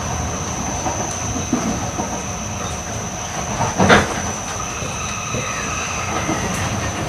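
Running noise of an E8 series Shinkansen train heard from inside a passenger car: a steady rolling rumble with a thin high whine over it. There is one sharp, loud knock about four seconds in, and faint higher squealing tones near the end.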